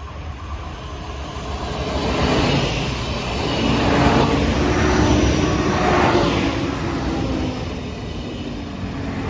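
Train passing by, its noise building up, peaking about four to six seconds in, then easing off.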